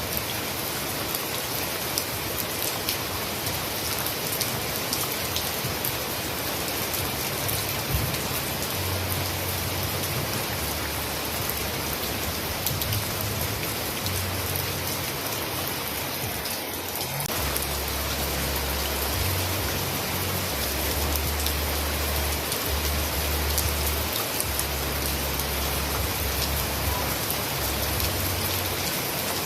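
Steady heavy rain: a dense hiss with many small, sharp drop ticks. A low rumble sits underneath, coming in about a quarter of the way through and growing stronger past the middle.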